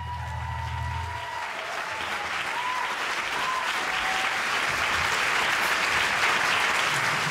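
Audience applauding at the end of a live rock song, building up and holding steady. The last bass and guitar chord rings out and dies away in the first second or so.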